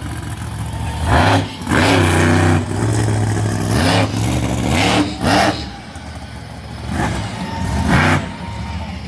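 Monster truck engine revving hard, its pitch climbing and falling, with several short loud bursts spread through.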